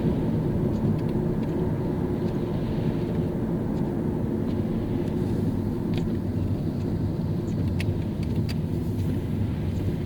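Car driving on a rain-wet road: a steady low rumble of engine and tyres, with a few faint ticks from about six seconds in.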